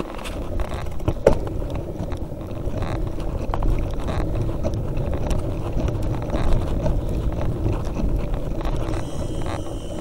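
Mountain bike riding over a rough trail: a steady rumble of tyres and wind on the microphone, with scattered rattles and knocks from the bike.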